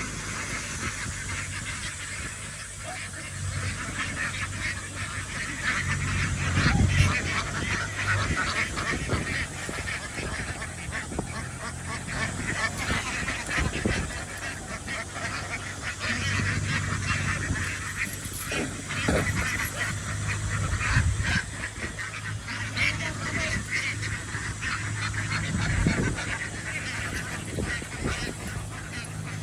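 A large flock of domestic ducks quacking continuously, many birds calling over one another, with a low hum coming and going underneath.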